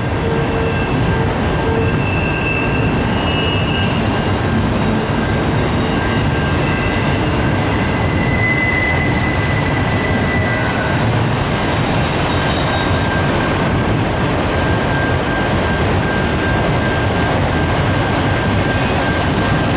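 Long CSX freight train of empty autorack cars rolling past: a steady rumble and clatter of wheels on rail. Thin, high wheel squeals come and go over it.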